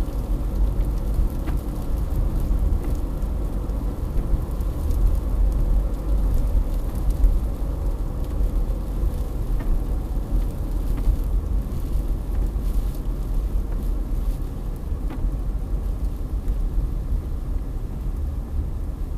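Strong wind storm gusts buffeting the microphone: a continuous low, rumbling roar that surges and eases.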